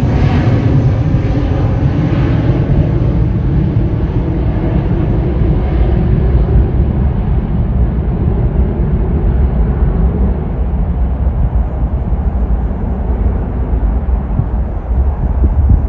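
Jet airliner's engines at takeoff power, a heavy low rumble whose high hiss fades steadily as the plane climbs away.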